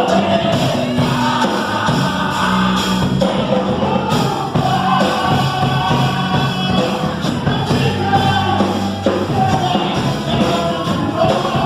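Gospel hymn: singing over instrumental accompaniment, with sustained bass notes under the voices.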